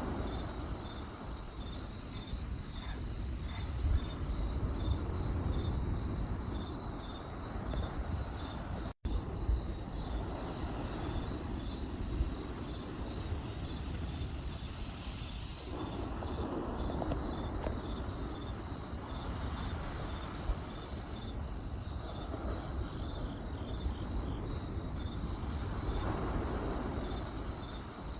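Crickets chirping in a steady, rapid pulsing trill, over the low rush of a campfire with a few sharp crackles and pops.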